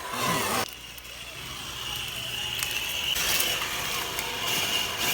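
Electric motor and gearbox of a 1/10-scale RC crawler whining steadily as it drives, the pitch drifting a little with throttle. The sound changes abruptly about half a second in.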